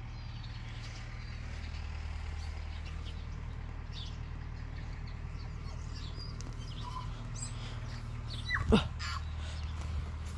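Birds calling outdoors: scattered short, high chirps over a steady low rumble, and one loud, sharply falling squawk about eight and a half seconds in.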